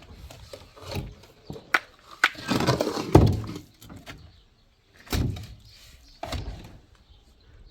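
A series of irregular knocks and thuds, with a longer scraping rush in the middle, typical of manual building work.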